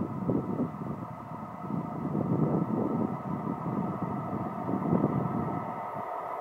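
Freight train rolling past, an uneven, continuous rumble of wheels on the rails with swells in level.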